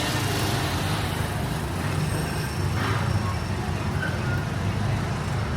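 Steady low rumble and hiss of a Disneyland Railroad train, heard from aboard.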